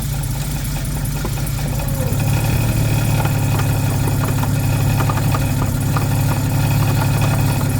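Jaguar XK150's straight-six engine idling with its Borg-Warner DG 250 automatic transmission held in low against the brake. A steady hum grows a little louder about two seconds in, with faint irregular ticks over it. It is an unexplained transmission noise in a gearbox that had been judged good before installation.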